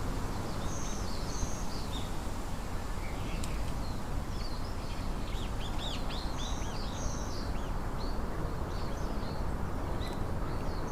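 Small birds chirping and twittering in quick, short calls, busiest in the middle, over a steady low background rumble.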